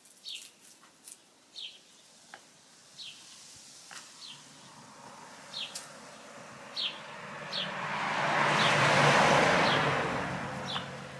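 A small bird calling outdoors with short, high chirps about once a second. From about six seconds in, a passing motor vehicle swells up, is loudest around nine seconds, and fades away.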